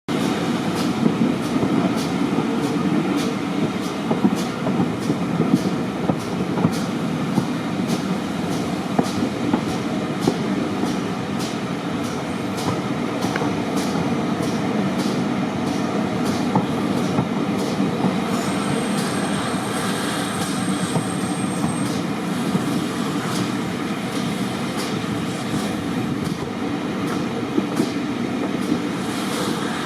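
Train running along the track: a steady rumble with regular clicks of the wheels passing over rail joints, and a faint thin high tone for a few seconds past the middle.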